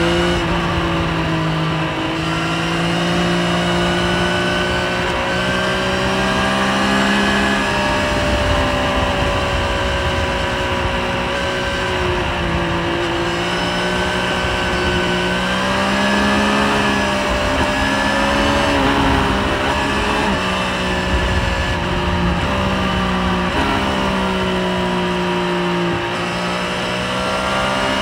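Triumph Street Triple 765 RS inline-three engine heard from on board at about 100–110 km/h, its note rising and falling with the throttle through the bends, with several quick steps in pitch, over steady wind rush.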